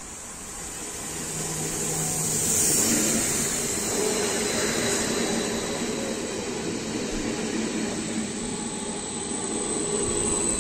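ODEG Stadler KISS double-deck electric multiple unit approaching and passing close by. Its running noise grows louder over the first two or three seconds, then holds steady as the cars go by, with a high steady whine.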